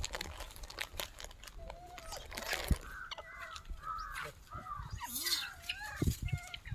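A run of short, wavering chirping animal calls, starting about two and a half seconds in, over scattered clicks and knocks.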